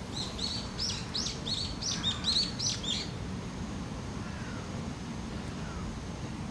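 A small songbird singing a quick run of about a dozen high chirps, roughly four a second, that stops about three seconds in, over a steady low background rumble.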